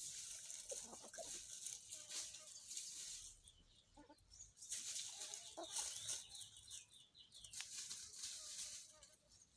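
Domestic chickens clucking softly, with bursts of rustling noise.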